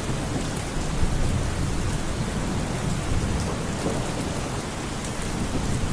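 Steady rain with scattered drop ticks, over a low rolling rumble of thunder.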